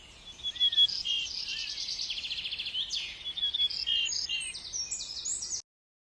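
Several small birds chirping and trilling at once in a busy, overlapping chorus over faint outdoor background noise; it cuts off suddenly about five and a half seconds in.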